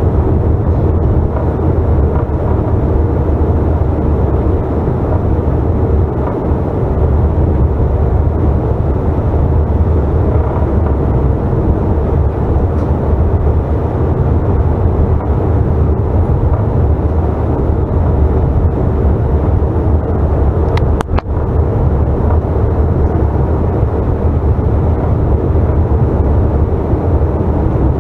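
Steady cabin drone inside a Bombardier CRJ900 regional jet: the rear-mounted turbofan engines and airflow, a deep rumble with a few steady hum tones over it. A brief click about 21 seconds in.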